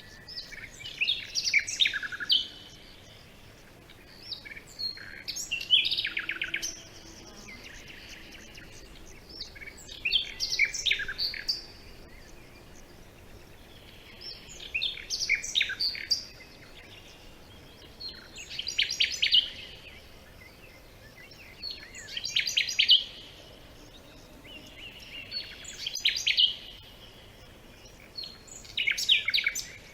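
A songbird singing short phrases of rapid, trilled high notes, repeated about every four seconds over a faint steady background.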